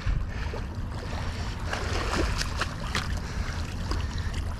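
Steady wind rumble on the microphone over a rushing outdoor noise of moving water, with a few light clicks scattered through.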